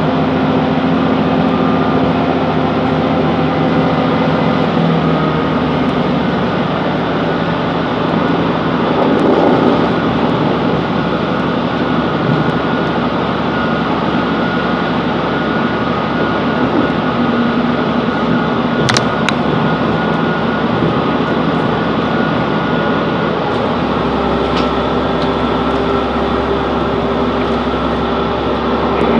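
Class 165 Networker Turbo diesel multiple unit running along the line: a steady diesel engine note over wheel-on-rail noise, with a sharp click about two-thirds of the way through and a deeper hum coming in near the end.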